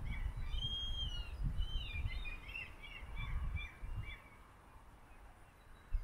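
Small birds chirping: a quick run of short, high chirps that thins out and stops about four seconds in, over a low rumble.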